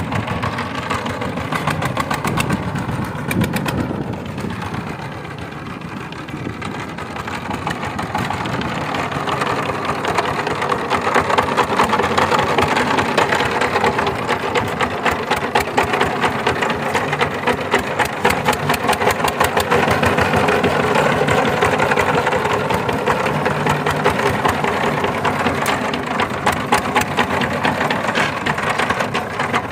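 Diesel engine running with a rapid, even knocking beat; it eases off about four to seven seconds in, then picks up speed and runs louder and steady.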